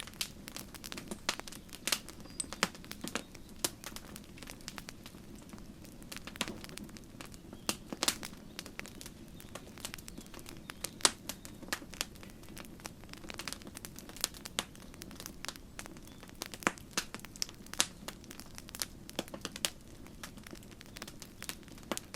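Campfire crackling: irregular sharp pops and snaps of burning wood, several a second, over a low steady rumble of the flames.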